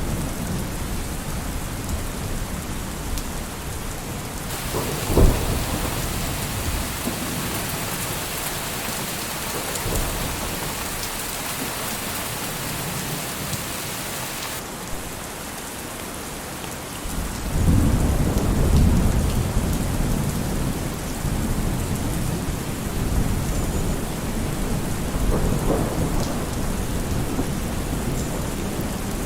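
Steady rain with thunder. A sharp thunderclap about five seconds in, and a long low rumble of thunder rolling in a little past halfway.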